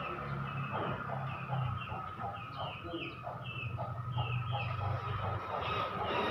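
A bird calling in a rapid series of short chirps, about three a second, over a steady hum.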